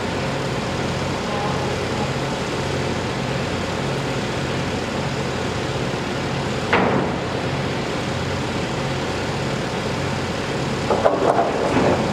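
Steady engine and traffic-type rumble with a pulsing low hum, broken by one sharp knock about seven seconds in and a few irregular clatters near the end.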